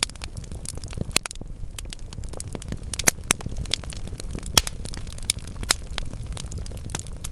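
Wood fire burning in a fireplace: a steady low rumble of flames with frequent sharp crackles and pops from the logs, several louder pops standing out.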